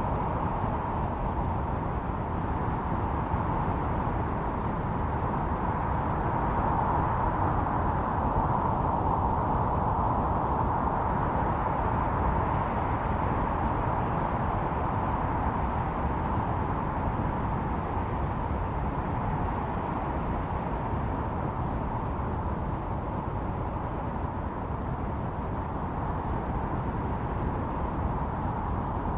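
Blizzard wind: a steady, deep rushing noise with a howl that swells about a third of the way in and eases off later.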